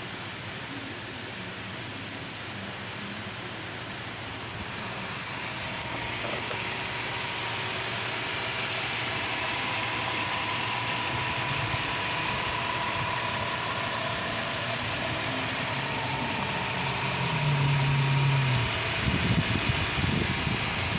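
Subaru Outback's horizontally opposed boxer engine idling steadily with a faint steady whine. It grows slightly louder over the first several seconds, and a short louder low hum comes near the end.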